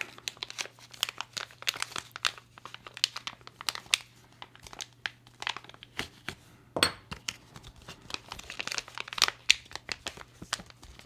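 Plastic packaging crinkling in irregular crackles and small clicks as it is handled and opened, the titanium knife scales being unwrapped.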